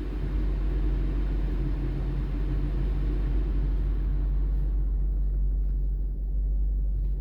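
Steady low rumble with an airy hiss inside a car cabin; the hiss falls away about four and a half seconds in while the rumble carries on.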